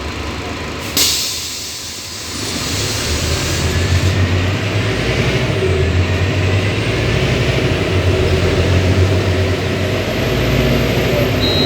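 Scania city bus: a sudden burst of compressed-air hiss about a second in, fading over a few seconds, then the diesel engine growing louder and running under load as the bus moves off.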